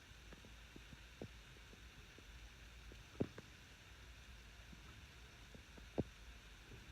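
Quiet room tone: a low steady hum with a few faint short taps, the clearest about three and six seconds in.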